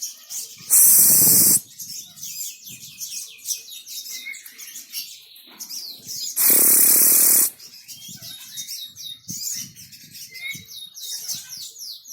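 Sogon (sogok ontong) birds sing in a fast, busy stream of high chirps and trills. Twice, about a second in and again past the middle, a loud hiss-like burst of noise lasting about a second covers the song.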